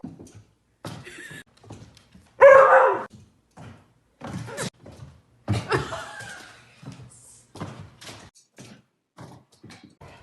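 An animal calling, loudest about two and a half seconds in, among a string of short knocks and brief sounds.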